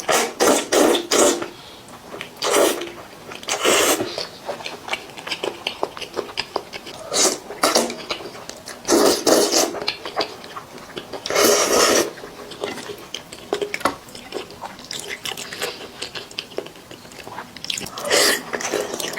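Close-miked eating sounds: a person biting into and chewing braised chicken, heard as clusters of short clicky mouth sounds every few seconds with quieter pauses between.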